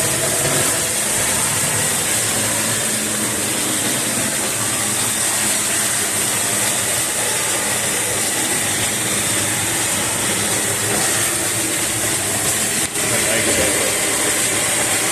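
Shotcrete/gunite nozzle spraying concrete mix on a blast of compressed air: a loud, steady hiss, with a brief break about 13 seconds in.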